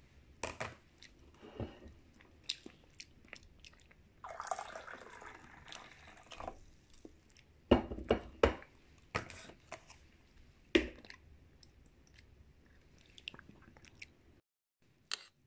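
Close-miked chewing of chicken and tofu: an uneven string of sharp mouth clicks, with a denser stretch of chewing about four to six seconds in and a brief gap near the end.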